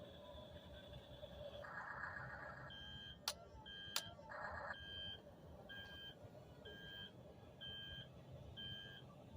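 Double E remote-control track-type tractor's electronic sound module: a steady tone cuts out, two sharp clicks sound, then a string of short beeps repeats about once a second.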